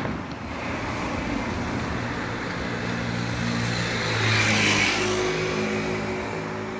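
Road traffic on wet roads in the rain: a steady hiss of tyres and rain over a low engine hum, swelling as a vehicle passes about four to five seconds in.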